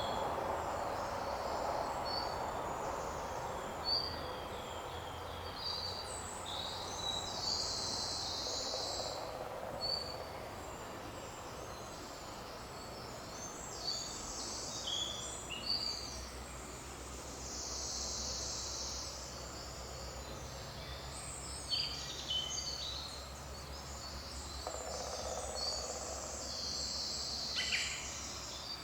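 Several small songbirds chirping and trilling in quick, overlapping short phrases, over a steady background hiss of forest ambience.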